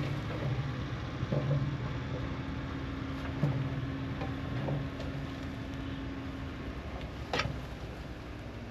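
Dump truck engine running steadily, with a held hum through the middle and one sharp knock about seven seconds in.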